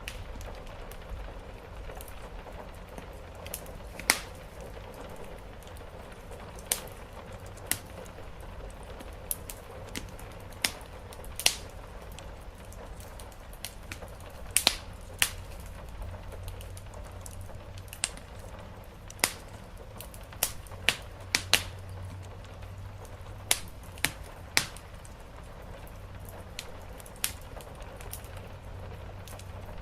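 Wood fire crackling, with sharp irregular pops scattered over a steady low rumble and a soft hiss of rain on the roof.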